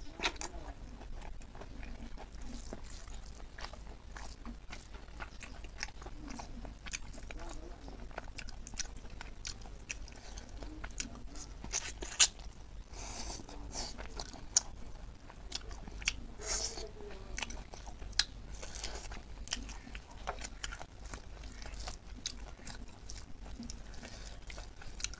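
Close-miked chewing and lip smacking as a person eats pork leg with rice by hand, with sucking at the fingers. A steady run of wet clicks and smacks, with a few sharper, louder smacks around the middle.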